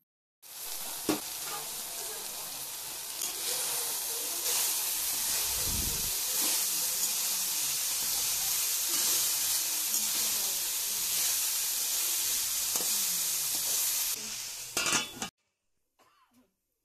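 Niangtaser sizzling as it is stir-fried in a wok, with a metal spatula stirring and scraping now and then. The sizzling cuts off suddenly about 15 seconds in.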